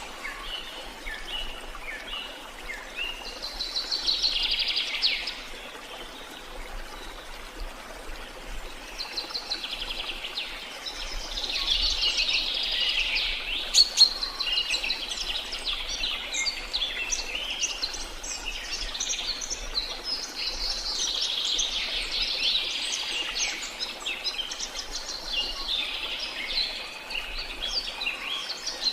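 Birds chirping in dense bursts of short, high notes that swell and fade in waves, over a steady faint hiss of falling water. A single sharp click about halfway through.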